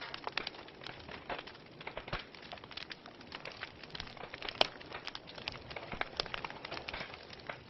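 Wood fire burning in a fireplace, crackling steadily with many irregular small pops over a soft hiss. One sharper pop stands out about four and a half seconds in.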